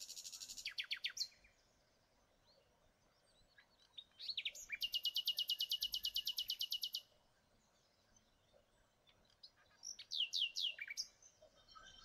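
Songbird singing in three phrases: a burst of high chirps at the start, a long even trill of rapid notes, about ten a second, from about four to seven seconds in, and a few falling chirps near the end.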